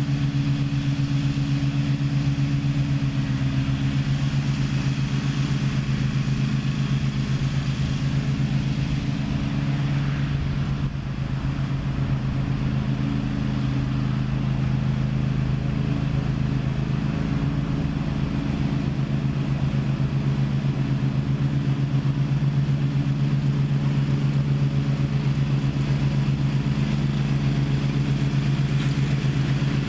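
Gravely ZTX 42 zero-turn mower's engine running steadily while mowing, dipping briefly about eleven seconds in.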